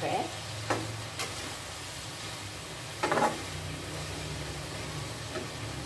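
Tempe frying in hot oil, sizzling in the pan, while a metal spatula stirs and turns it. The spatula scrapes and clinks against the pan a few times, loudest a little after three seconds in.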